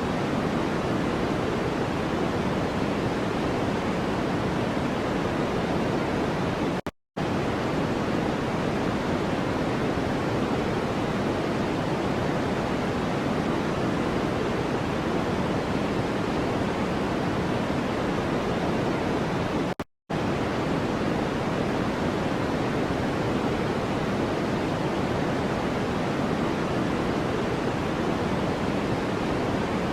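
Steady, even rushing noise of a white-noise track, fuller in the low range than the high. Two very short gaps of silence break it, about seven seconds and about twenty seconds in.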